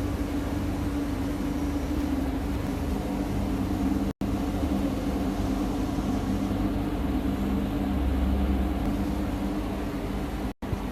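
A machine running with a steady hum and a constant low drone, unbroken apart from a momentary dropout about four seconds in.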